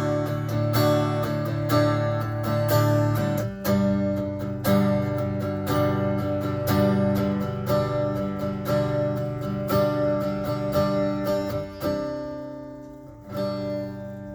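Fender Acoustasonic Stratocaster strummed in its Rosewood Concert acoustic voicing and heard through speakers fed from a mixing board. Chords ring on each strum and change every few seconds, fading out near the end.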